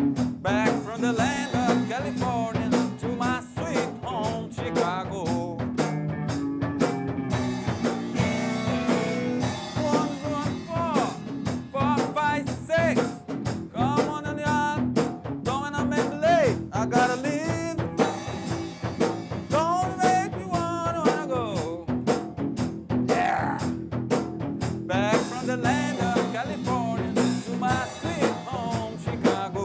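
Band music with a steady drum-kit beat, a bass line and a bending lead melody.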